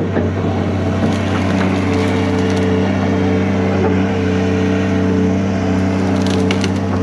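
Diesel engine of a hydraulic excavator running steadily under load while brush and tree limbs snap and crack, in a cluster about a second in and again near the end.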